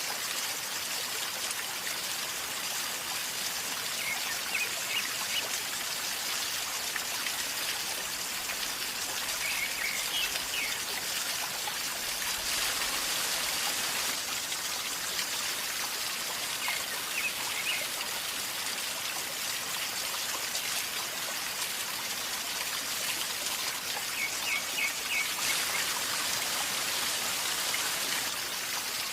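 River water flowing calmly and gurgling steadily, with short high chirps a few times, near 4, 10, 17 and 24 seconds in.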